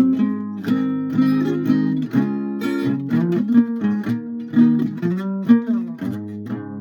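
Guitar playing: chords strummed every half second or so, then quicker picked single notes from about three seconds in.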